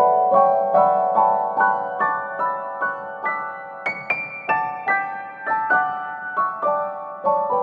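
Background piano music: a gentle melody of single struck notes, about two a second.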